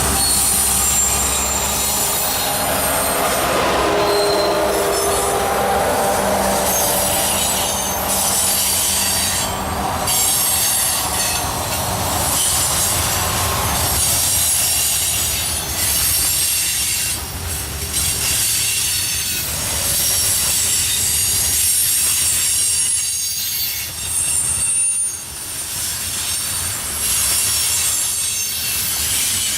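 A train rolling past at close range, its steel wheels squealing against the rail in several steady high tones over the rumble and clatter of the cars. A lower steady hum with tones sits under it for the first several seconds.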